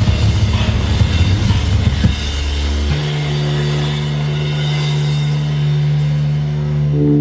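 Hardcore punk band playing live: fast, dense drumming and distorted guitars that break off about two seconds in, leaving a steady held low guitar and bass drone ringing out.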